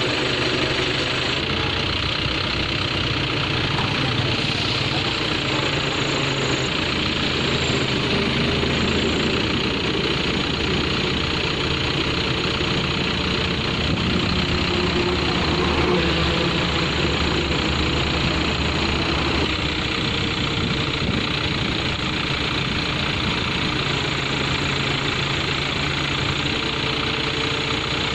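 A vehicle engine idling steadily, running evenly without pauses.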